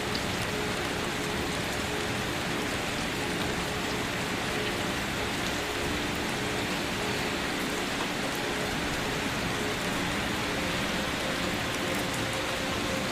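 Gentle, steady rain falling: an even hiss with scattered drops pattering.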